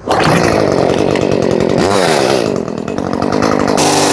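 Chainsaw running at high speed while cutting tree limbs. It starts abruptly, and its pitch dips and recovers about two seconds in as it loads in the cut.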